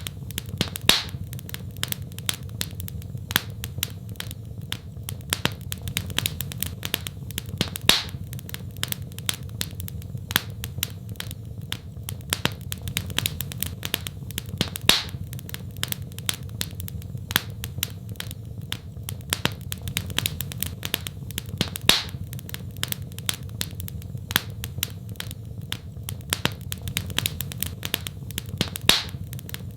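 Wood fire crackling in a fireplace: a dense run of sharp snaps and pops, a few of them louder every several seconds, over a steady low rumble of the burning fire.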